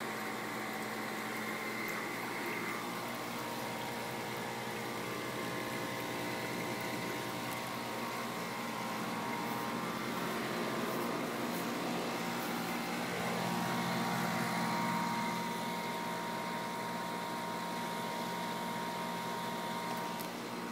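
Steady mechanical hum with several held tones, a little louder about two-thirds of the way through.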